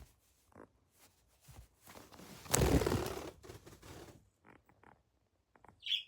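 A pet bird's wings flapping in one short burst as it flies off, then a brief high call near the end.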